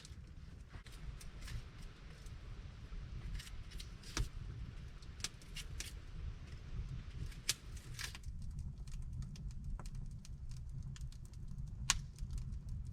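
Scattered sharp clicks and small knocks, irregular and a little denser near the end, over a low steady rumble.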